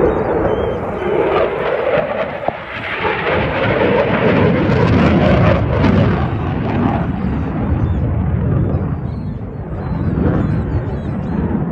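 Jet aircraft flying past: a loud, continuous rumble with wavering pitch, loudest about halfway through and then easing off.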